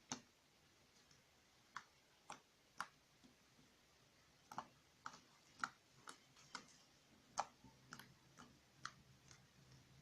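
Slime being squeezed and poked by hand, giving short, sharp clicks and pops at irregular intervals. They come sparsely at first and more often from about four seconds in.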